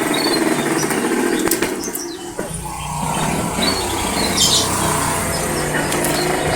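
Songbird chirping in short high notes, with a steady low hum setting in about two and a half seconds in.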